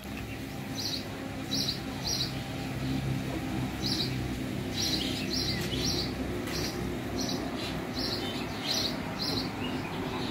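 A small bird calling over and over with short high chirps, roughly two a second, over a low steady rumble.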